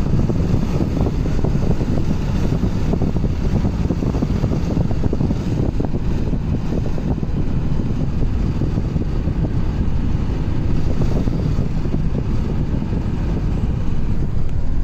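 Steady low rumble of a moving vehicle on the road, mixed with wind noise on the microphone.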